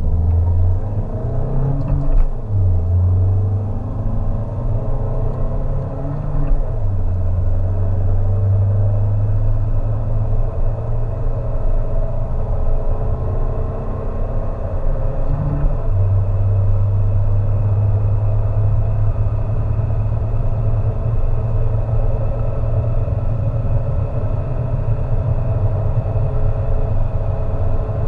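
Peugeot 207's 1.6 HDi four-cylinder turbodiesel pulling under hard acceleration, a steady low rumble whose note breaks off briefly three times, about 2, 6 and 15 seconds in, at gear changes.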